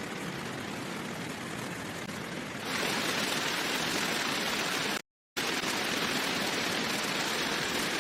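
Steady rain, an even hiss that gets louder and brighter about two and a half seconds in, broken by a brief dead gap just after five seconds.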